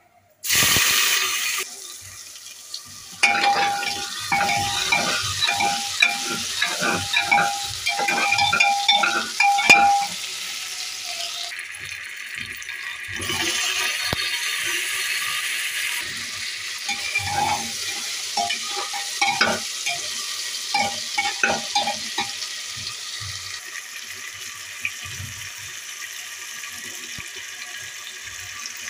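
Hot oil sizzling in a pressure cooker as cumin seeds and chopped tomatoes fry, with a perforated metal ladle scraping and clinking against the pot while stirring. A loud burst of sizzling comes about half a second in, and two long stretches of rapid ringing scrapes follow.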